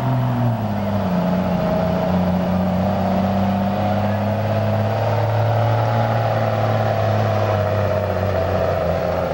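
Diesel pickup truck engine running hard at high, steady revs while dragging a weight sled in a truck pull; the pitch settles slightly about a second in and then holds.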